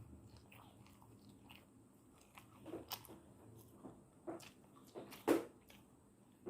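Close-miked chewing and lip-smacking of a person eating spicy instant noodles, with a handful of short, sharp wet mouth clicks in the second half, the loudest about five seconds in.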